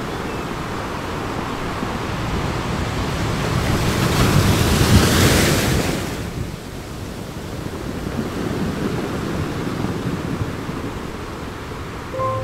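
Ocean surf: a steady wash of waves, with one wave swelling and breaking about four to six seconds in, then falling back.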